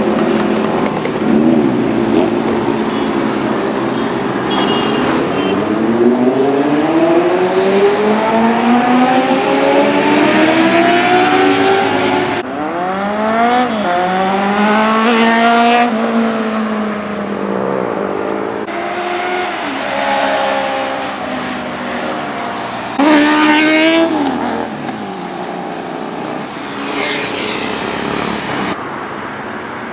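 Superbike engines revving hard as the bikes accelerate past, several flybys in a row. The pitch climbs through each gear, then falls as a bike goes by. The loudest, sharpest pass comes about 23 seconds in.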